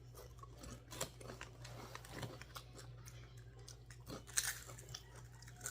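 Potato chips being bitten and chewed: faint, scattered crisp crunches and crackles, a few stronger bites about a second in, around two seconds and around four seconds.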